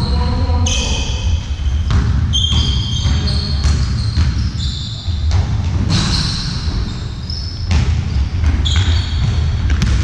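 Indoor court game in a sports hall: a ball bouncing and striking, with short, high squeaks from shoes on the hall floor and the room's echo throughout.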